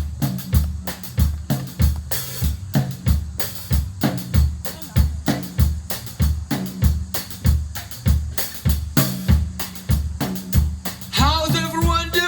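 Live drum kit playing a steady dance beat of kick drum and snare hits. About eleven seconds in, a wavering, held pitched sound comes in over the beat.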